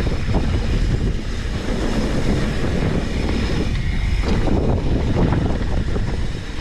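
Wind buffeting a GoPro microphone during a fast mountain-bike descent, over a steady low rumble of tyres and bike rattling on a rough dirt trail, with scattered short knocks from bumps.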